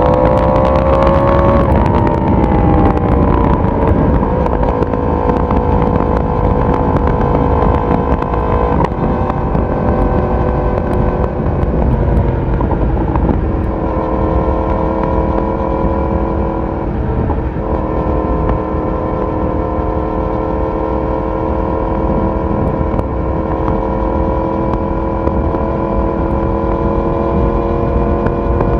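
Yamaha YZF-R1 inline-four engine and exhaust heard from on board while riding. The engine note rises briefly, drops about two seconds in, then holds at a steady cruise under a constant rush of wind and road noise.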